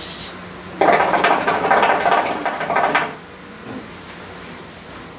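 Hookah water bubbling hard for about two seconds as smoke is drawn through the hose, starting about a second in and stopping abruptly, followed by a much quieter stretch.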